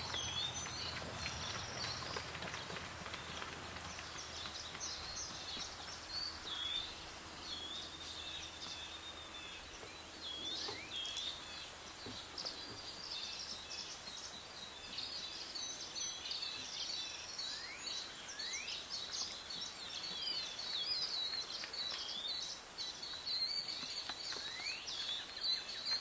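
Small wild birds chirping and calling over a steady hiss of outdoor background noise, with many short chirps and a few quick sweeping whistles.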